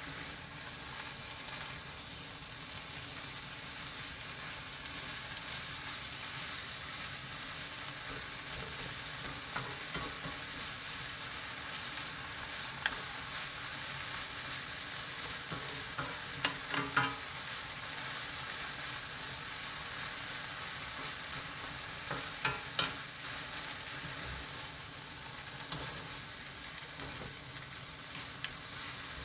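Chwinamul (wild aster greens) sizzling steadily as they stir-fry in a pan, with a few sharp clicks and scrapes of the stirring utensil against the pan.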